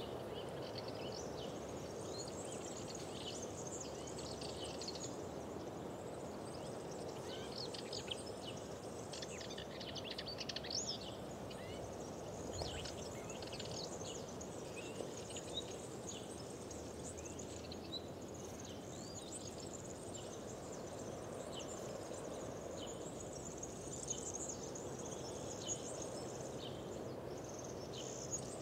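Several small birds chirping and singing in short, rapid high phrases throughout, over a steady low background hiss.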